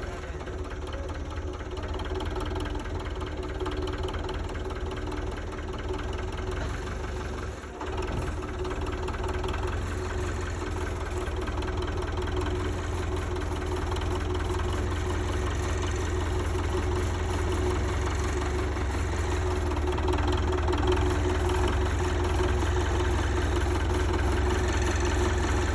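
Belarus 520 tractor's diesel engine running steadily at low revs, with a knocking clatter. It dips briefly about a third of the way in and grows slightly louder toward the end.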